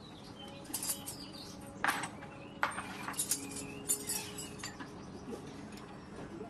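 A few sharp metallic clinks and knocks, the loudest about two seconds in, with birds chirping in the background.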